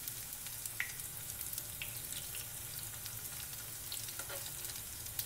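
Rice-flour-battered cauliflower florets sizzling steadily as they shallow-fry in hot oil in a pan, with a few light clicks of a utensil turning the pieces.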